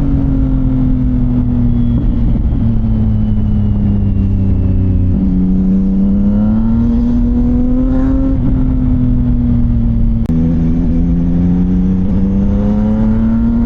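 CFMoto 675NK's three-cylinder engine through a titanium full-system exhaust while riding. Its note rises and falls with the throttle, with sudden pitch steps at gear changes about 5 and 10 seconds in.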